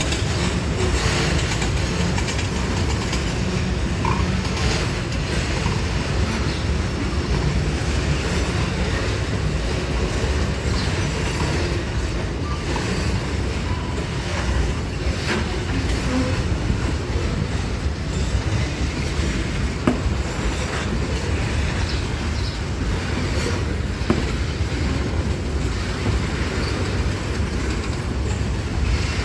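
Freight train wagons rolling past, a steady rumble with wheels clattering over the rail joints and a couple of sharp knocks about twenty and twenty-four seconds in.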